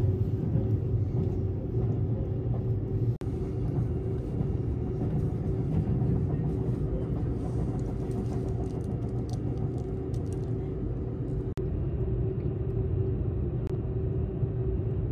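Seibu La View (Series 001) limited express heard from inside the passenger car: a steady low running rumble with a steady hum. The sound breaks off for an instant twice, about three seconds in and near twelve seconds.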